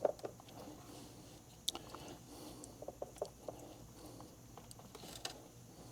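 Faint handling noise of hands working plastic wire-harness connectors: scattered small clicks and rustles, a sharper tap about two seconds in and another near the end.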